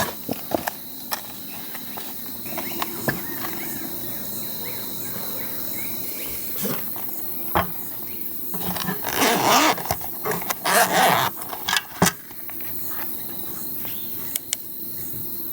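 Insects, likely crickets, trilling steadily at one high pitch, with scattered sharp clicks and knocks. A louder burst of rustling runs from about nine to eleven seconds in.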